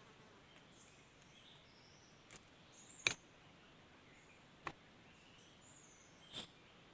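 Faint small birds chirping, with four sharp clicks spread through it, the loudest about three seconds in.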